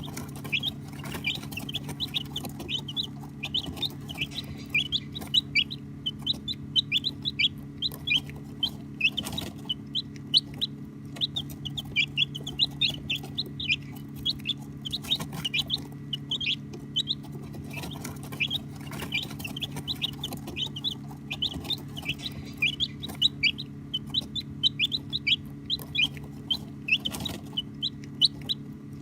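A group of baby chicks peeping non-stop: many short, high chirps that slur downward, several every second, over a steady low hum.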